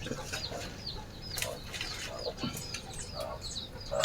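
Domestic chickens calling: a run of short, high chirps, about three a second.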